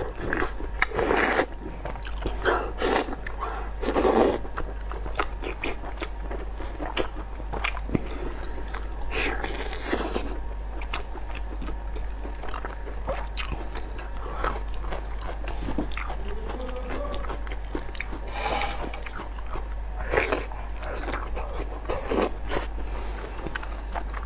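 Chewing and biting on spicy braised tied intestines in chili oil: wet mouth sounds and small clicks, with a louder bite every few seconds.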